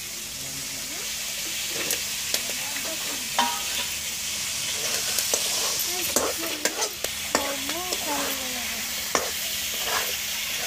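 Rohu fish pieces and potato slices frying in masala in a steel kadai, sizzling as a steel spatula stirs them. The spatula scrapes and clicks against the pan again and again, and the sizzle grows louder after about two seconds.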